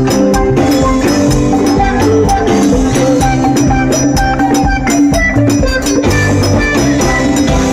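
Loud live band music: a sustained bass line and held pitched notes over a steady beat of drums and jingling percussion.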